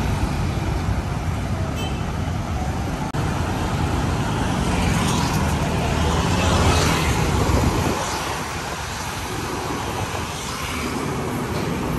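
Road traffic noise: a steady rumble of passing vehicles, swelling as a louder vehicle goes by about two-thirds of the way through, then easing off.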